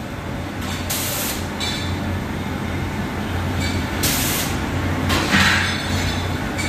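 Factory machinery of an automatic ladling machine and furnace running with a steady hum, cut by three short hisses of air or spray.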